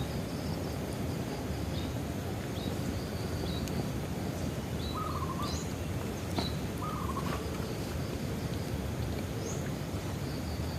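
Bonfire burning with a steady low rush and a few sharp crackles, one louder pop a little past the middle. Birds chirp repeatedly in the background, with two short warbling calls.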